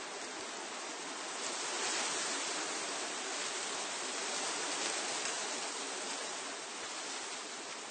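Wind rushing through the leaves of trees, a steady hiss that swells into a stronger gust from about a second and a half in and eases off again near the end.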